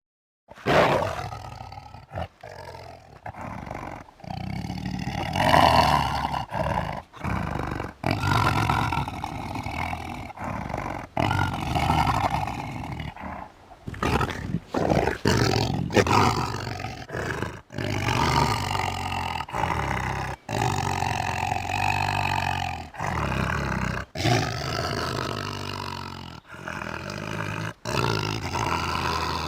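Big cat roaring and growling, a run of short recorded pieces joined with abrupt cuts between them.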